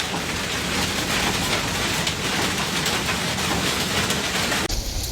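Heavy rain pouring down on hard surfaces, a dense, steady hiss. A little before the end it cuts suddenly to a deeper rumbling noise.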